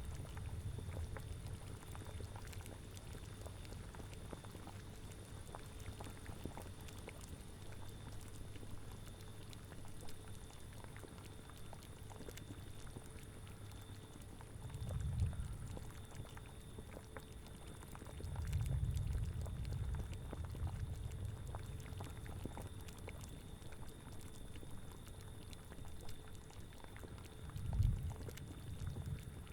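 Cauldron boiling in a spooky ambience soundscape: a steady bubbling and popping over a low rumble, with three short deeper swells about halfway through, a little later, and near the end.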